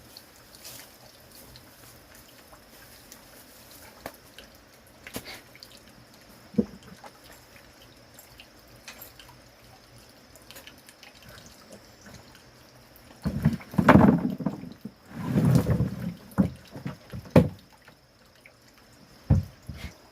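Water dripping and splashing, with a loud rush of splashing about two-thirds of the way in and several sharp knocks after it.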